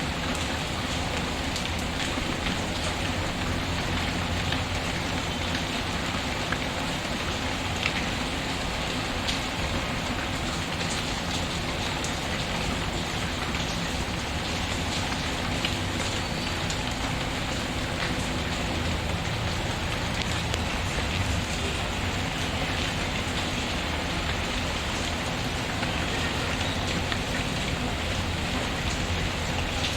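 Steady rain pattering on a surface, with faint scattered crackles from a wood fire in a fireplace.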